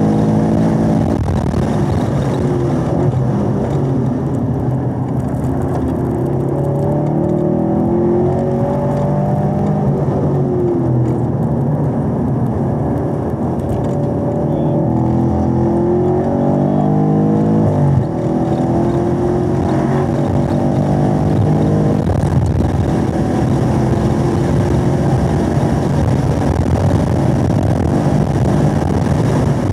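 Chevrolet Camaro 1LE engine heard from inside the cabin on a hard track lap. The revs rise and fall through the gears, dropping sharply at a gear change about 18 seconds in, then holding high as the car accelerates in fourth.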